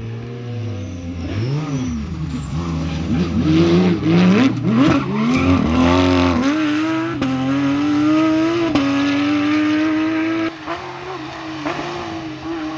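Rally car engine revving hard in quick up-and-down blips, then held at high revs with a slowly climbing note for several seconds before the throttle lifts about ten seconds in.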